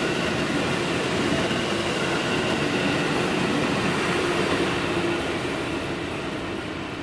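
Electric train passing on the track, a steady rolling rumble with a faint motor whine that fades away near the end.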